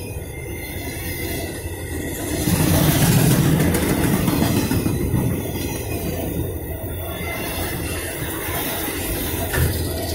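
Autorack freight cars rolling past at track side, steel wheels running on the rails in a continuous rumble. It swells louder for a couple of seconds about two and a half seconds in, with more hiss up high.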